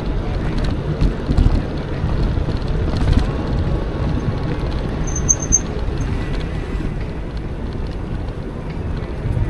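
Electric mountain bike riding a trail: a steady rumble of wind on the microphone and tyres, with a few bumps in the first few seconds and brief high chirps about halfway.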